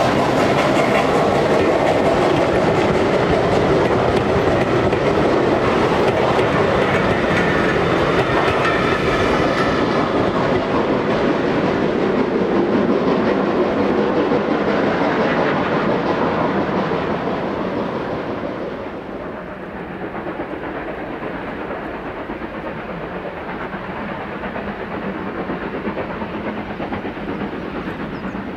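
A steam-hauled train's coaches rolling past over the rails with a clickety-clack, fading as the train draws away; about two-thirds of the way through the sound drops to a much quieter background.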